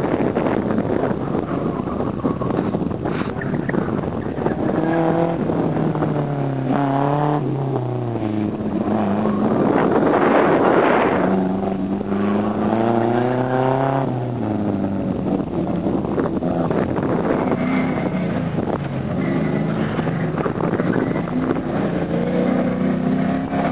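Autocross cars running a cone course, engines revving up and dropping back as the drivers accelerate and lift between the cones. One car passes close about ten seconds in, the loudest moment; another car's engine follows near the end.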